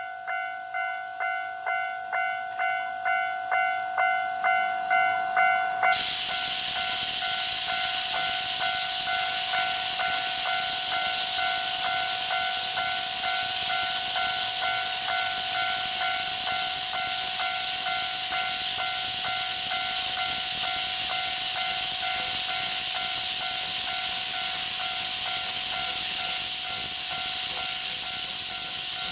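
Steam locomotive C12 66 chuffing at about two beats a second, growing louder, then from about six seconds in a loud, steady hiss of escaping steam.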